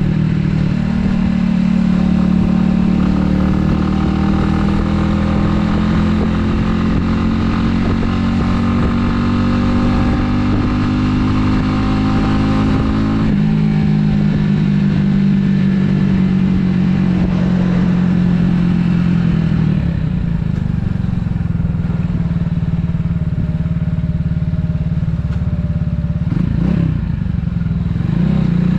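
Italika 250Z motorcycle engine running on the road, its note steady and sagging slightly. The pitch changes abruptly about halfway through, the engine goes softer and lower in the last third, and there are two short revs near the end.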